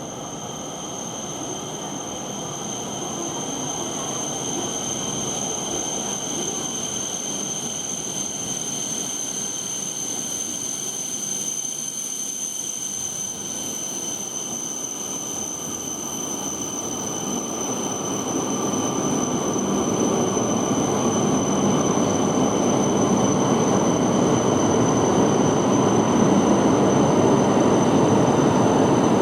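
Tohoku Shinkansen Yamabiko train arriving at the platform: its rushing rumble grows steadily louder, most of all over the last ten seconds, with a steady high-pitched whine throughout.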